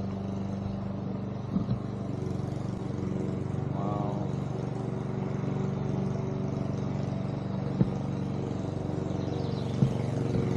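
A steady engine hum runs throughout, with a few sharp clicks about a second and a half in and near the end.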